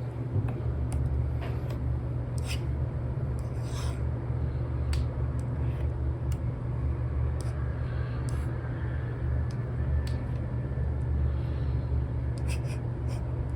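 Apple Pencil nib tapping and stroking on an iPad's paper-like screen protector: irregular short ticks with a few brief scratchy strokes, over a steady low rumble.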